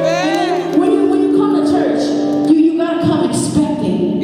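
Worship music from a church praise team: held chords under a singing voice that sweeps up and down in short melodic runs.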